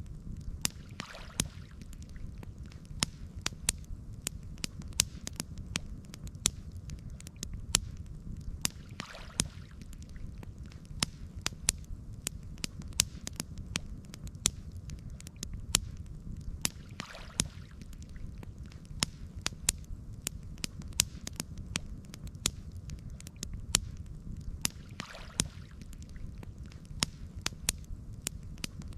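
Campfire crackling: many sharp pops and snaps of burning wood over a steady low rumble, with a faint short hiss about every eight seconds.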